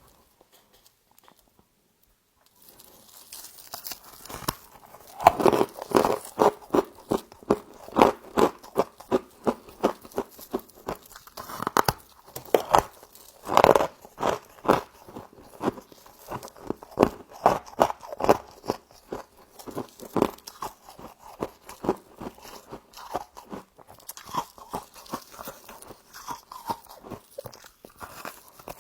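Close-up crunching and chewing of mouthfuls of frost, a rapid run of sharp crunches at roughly two a second. It starts about two and a half seconds in.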